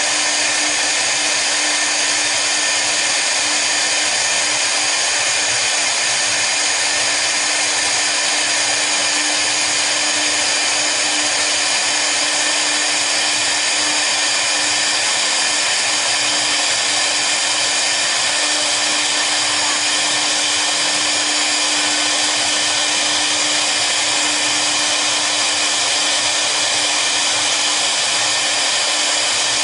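Double-head CNC router running a cutting job with both spindles turning: a steady, loud whine and hiss that does not change.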